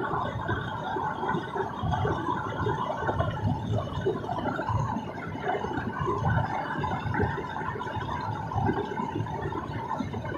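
Road and engine noise inside a moving car: a steady, uneven low rumble of tyres and engine.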